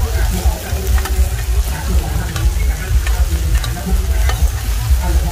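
Eggs and omelettes frying on a large flat griddle, sizzling, while metal spatulas scrape and clink against the griddle several times, over a steady low rumble.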